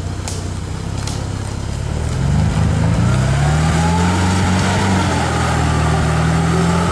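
LuAZ-969 Volynets off-roader's engine driving through forest undergrowth, revving up about two seconds in and then held steady at higher revs.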